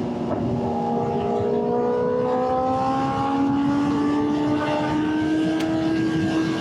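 Inline-four liter sport bike engines running at highway speed, their pitch climbing slowly and steadily under gradual acceleration, over a steady rush of wind and road noise.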